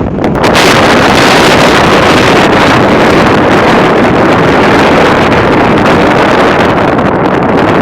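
Strong wind gusting in a high windstorm: a loud, continuous roar with wind buffeting the microphone. A gust builds about half a second in, and the hiss eases slightly near the end.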